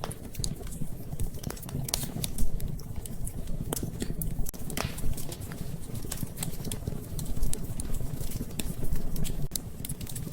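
Wood fire in a fireplace crackling, with irregular sharp pops and snaps over a steady low rumble of flames.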